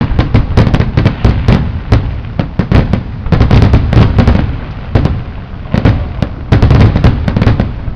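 Fireworks grand finale: a rapid, irregular barrage of aerial shell bursts and crackling reports, several bangs a second, over a continuous low rumble.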